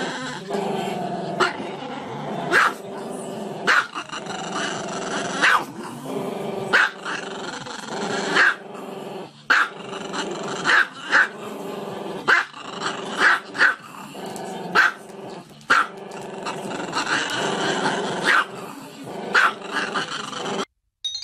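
A small long-haired black-and-tan dog with its head raised, keeping up a drawn-out, wavering howling vocalization broken by short sharp barks about once every second. It cuts off abruptly near the end.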